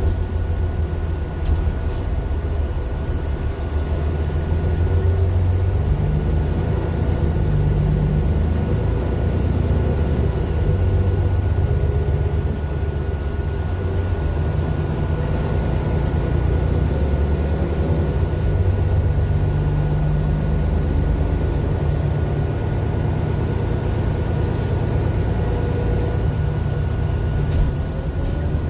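Mercedes-Benz Citaro LE city bus's Daimler OM 457 hLA straight-six diesel running, a steady low drone whose pitch rises and falls slightly. A thin high whine holds steady throughout, with a few faint clicks.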